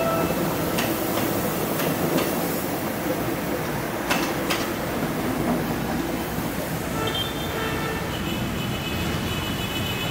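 Philippine National Railways commuter train passing close by: the steady rumble of the running train, with a few sharp wheel clacks over rail joints in the first half. Thin high squealing tones come in over the last few seconds.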